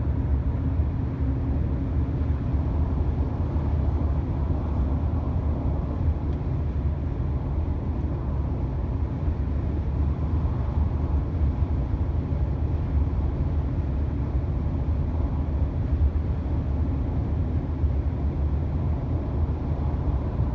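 Honda Odyssey minivan driving at highway speed, heard as a steady, low rumble of road and engine noise with no distinct knocks or clunks.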